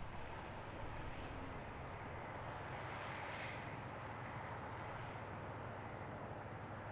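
Steady hum of a distant engine, swelling slightly about halfway through, with faint high chirps over it.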